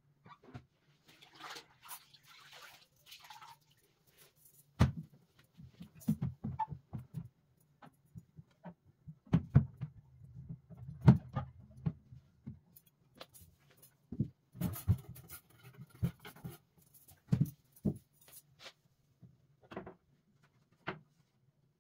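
A string of irregular knocks and clatters of household objects being set down and handled, with a short stretch of rustling about a second in, over a faint low steady hum.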